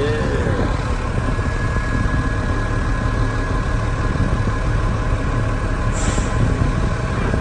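Garbage truck's diesel engine running steadily at idle, with a thin steady whine over the rumble and a brief hiss about six seconds in.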